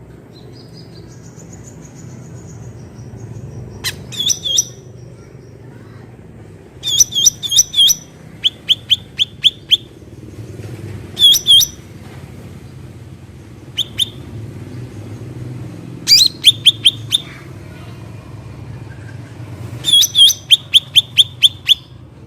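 Cucak ranting bird calling in bursts of rapid, sharp chirps: runs of a few to about eight quick notes, repeated every few seconds, over a faint low hum.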